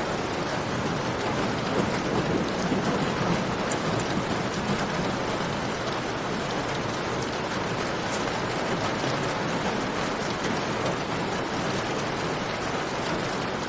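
Steady heavy rain falling, an even hiss with faint scattered high clicks through it.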